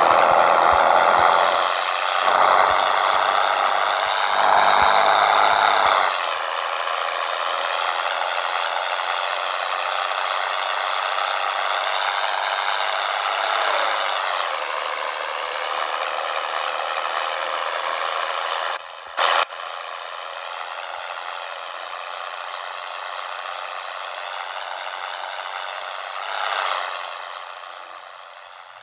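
Scania 113 truck's six-cylinder diesel engine pulling away under load, its pitch climbing through each gear and dropping back at shifts about 6 and 14 seconds in. The engine fades out near the end.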